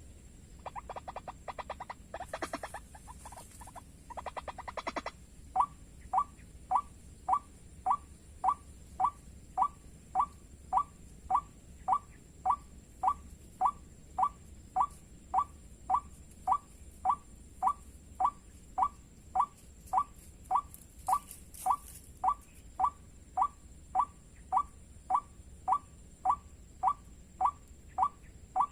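White-breasted waterhen calls: a few seconds of rapid chattering, then a steady, monotonous series of short downward-sliding notes, about two a second.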